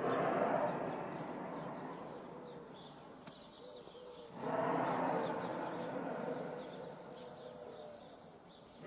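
An unexplained loud noise heard from the sky comes in long swells: one starts suddenly, fades over about four seconds, and a second begins about four and a half seconds in. Birds chirp faintly underneath.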